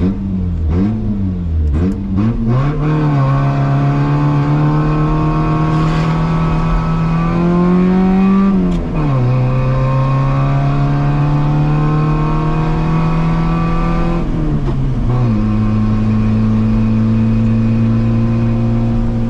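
Yugo's four-cylinder engine running after years of sitting: it surges unevenly for the first few seconds, then is held at a raised speed that climbs for several seconds, drops back about nine seconds in, and settles to a steady idle about fifteen seconds in. The owner puts its rough running down to a lot of vacuum leaks, so the gas pedal has to be pumped to keep it going.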